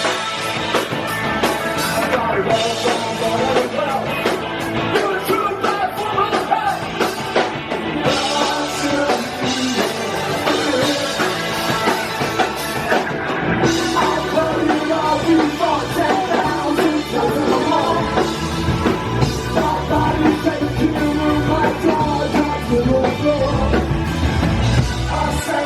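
Rock band playing live, with drum kit, electric guitars and a singer.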